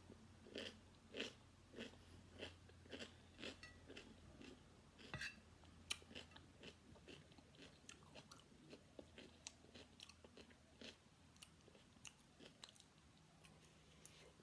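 Faint close-up chewing of cucumber and fried rice. Crisp, crunchy chews come about every half second at first, then grow softer and more scattered, with a couple of sharper clicks about halfway through.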